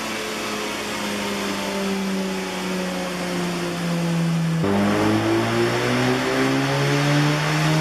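Mazda RX-7 FD's twin-turbo 13B rotary engine running on a dyno during tuning. Its pitch sags slowly, drops abruptly about four and a half seconds in, then climbs steadily.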